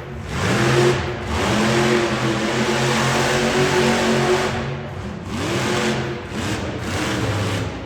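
Monster truck engine revving hard, its pitch climbing and falling over and over as the throttle is worked, with short lifts off the throttle about a second in and again around five seconds.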